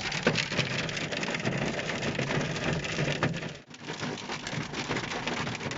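Hail mixed with rain falling and pattering on hard surfaces, a dense rush of many small ticking impacts. It dips briefly about two-thirds of the way through.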